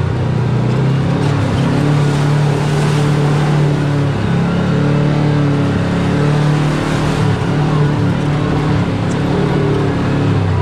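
Side-by-side UTV engine running at a steady, even speed on a trail, a constant drone, dipping briefly about four seconds in.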